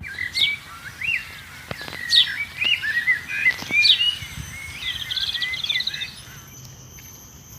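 Small birds chirping: a busy run of quick chirps and sharp rising and falling whistled notes, with a fast trill about halfway through, thinning out over the last couple of seconds while a thin steady high tone carries on.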